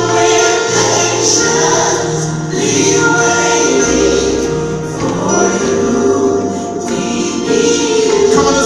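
Gospel worship music: a choir singing long held chords over a keyboard backing, with a deep bass note coming in about four seconds in.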